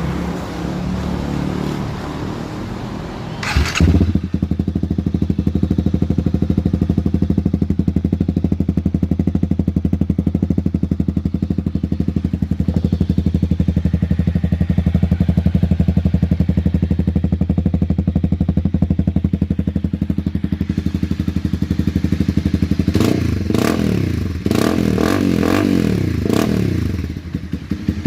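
Honda CB300R single-cylinder engine running through an aftermarket carbon bullet exhaust: a short burst about four seconds in, then a steady idle, with several quick throttle revs rising and falling near the end before settling back to idle.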